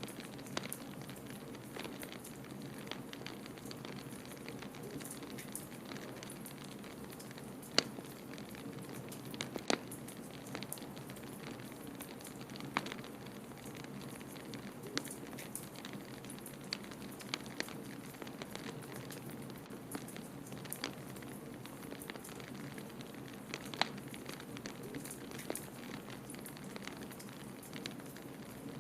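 Wood fire crackling in a fireplace, with irregular sharp pops, a few louder than the rest, over a steady low rush of blizzard wind.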